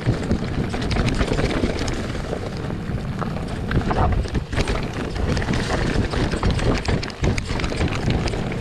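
Mountain bike riding over a rough, rocky trail: steady wind noise on an action camera's microphone, with tyre rumble and many small knocks and rattles from the bike.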